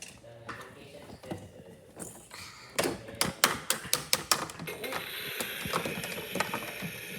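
Hard plastic toy pieces being handled, with a run of sharp clicks and clacks about three to four and a half seconds in. From about five seconds in a steady hiss sets in.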